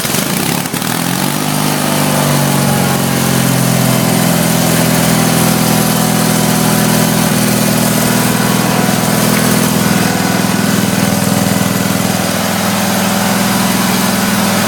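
Case 446 garden tractor engine running just after a cold start with the choke on. Its pitch shifts over the first couple of seconds, then it settles into a steady, loud run.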